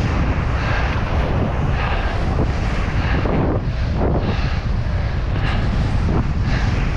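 Heavy wind buffeting the microphone while skiing, with skis scraping over crusted snow in repeated swishes about once a second.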